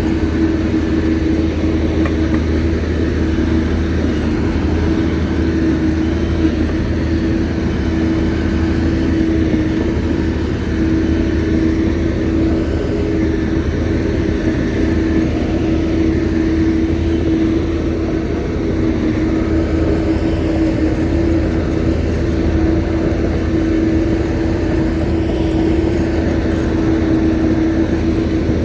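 Shantui bulldozer's diesel engine running steadily with a constant hum and no change in pitch.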